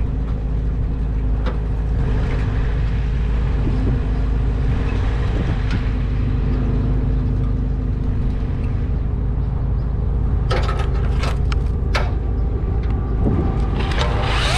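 An engine running steadily with a low rumble, with a few sharp clicks or knocks about ten to twelve seconds in.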